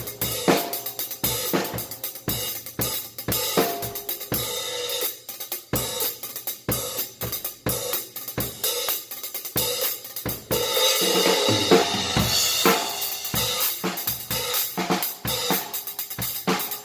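Drum kit groove played on 16-inch Paiste 2002 Sound Edge prototype hi-hats, with steady hi-hat strokes over kick and snare. A little past the middle, a sustained cymbal wash rings for about two seconds.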